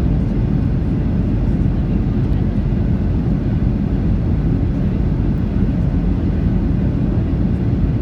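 Steady low roar of airflow and engine noise inside the cabin of a Boeing 737-800 on final approach, with the landing gear down and the flaps extended.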